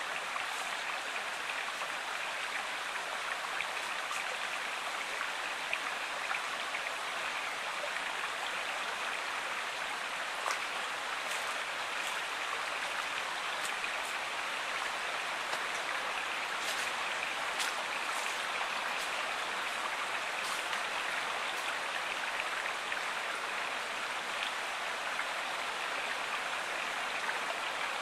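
Flowing river water: a steady, even rush with a few faint ticks now and then.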